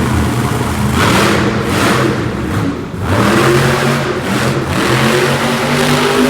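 Monster truck engine revving loudly in repeated surges, its pitch rising and falling.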